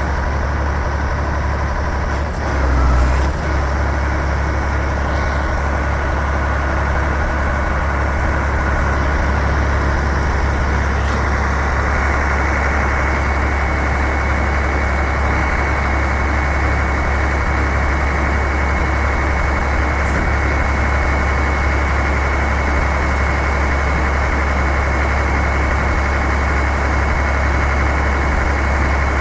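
Iveco 380E42 heavy-duty 6x6 truck's diesel engine idling steadily, with one brief louder moment about three seconds in.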